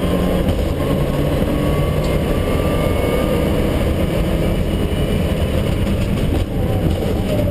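Mitsubishi Lancer Evolution IX rally car's turbocharged four-cylinder engine running steadily at speed, with road and tyre noise, heard from inside the stripped, roll-caged cabin.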